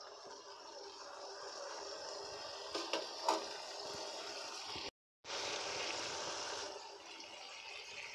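Tomato masala frying in oil in a metal kadai, sizzling and bubbling steadily, with a couple of light knocks about three seconds in. The oil is starting to separate from the masala, the sign that it is nearly fried.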